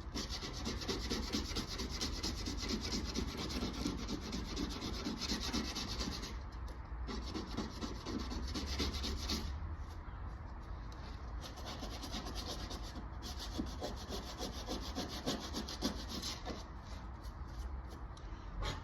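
Sanding a car body panel: abrasive paper scuffing steadily over the metal, stopping briefly about six seconds in and again near ten seconds. This is the edges being feathered flush before body filler goes on.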